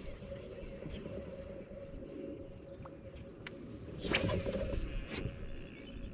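Steady hum with a constant mid-pitched whine, consistent with the kayak's electric trolling motor running, over low water and hull rumble; a short louder clatter about four seconds in.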